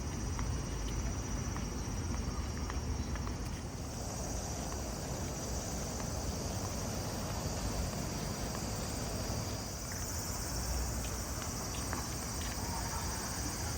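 Insects droning steadily in a high pitch, growing louder about four seconds in, over a low rumble.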